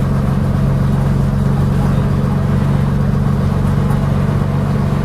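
Leyland Atlantean bus's Leyland O.680 six-cylinder diesel engine running steadily, with a strong low, even drone.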